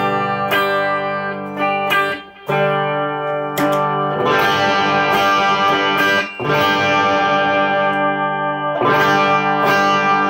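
Electric guitar, a single-coil Stratocaster, played loud through a Fender Twin Reverb amp with a distortion pedal on. Sustained chords ring out, broken by short gaps about two and six seconds in, and the tone turns brighter and grittier from about four seconds in.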